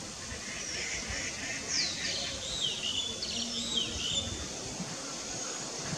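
Wild birds chirping and whistling, with a quick cluster of rising and falling high notes in the middle, over a steady outdoor background hiss.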